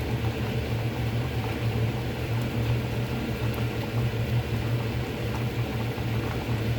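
Pot of water boiling on a stovetop with a sealed bag of soup stock in it: a steady bubbling rumble over a low hum.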